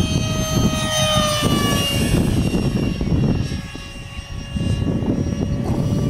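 The 64 mm electric ducted fan of a Freewing F-35 foam RC jet whining in flight as the plane passes, its pitch dropping about a second and a half in. Wind buffets the microphone throughout.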